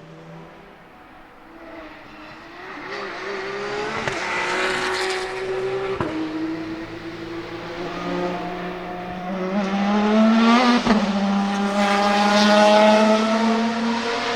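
Maserati MC12 GT1's naturally aspirated V12 racing engine accelerating on track. The engine note climbs in pitch and drops at gear changes, and it grows louder toward the end.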